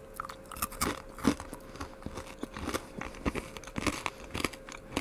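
A person chewing a mouthful of peanut brittle with a chocolate drizzle, giving irregular crisp crunches several times a second.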